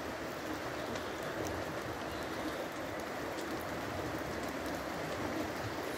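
Steady rain falling: an even hiss with now and then a faint tick of a single drop.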